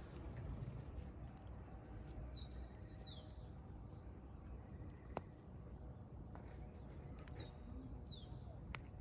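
Wood fire crackling with scattered sharp pops, the loudest about five seconds in. A small bird sings a short phrase of high falling notes twice, about five seconds apart.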